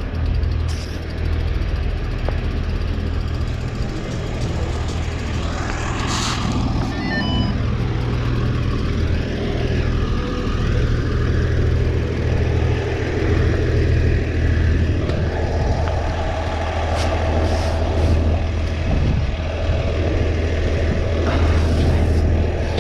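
Shuttle truck's engine running steadily close by, a deep constant hum, with a short run of high beeps about seven seconds in.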